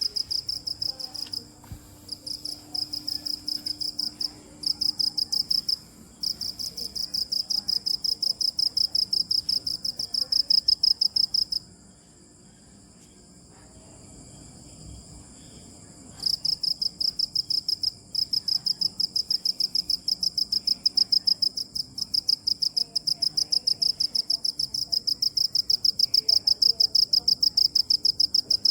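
A cricket chirping in a rapid, even run of high-pitched pulses, breaking off briefly a few times and pausing for several seconds midway. A fainter steady insect trill carries on underneath.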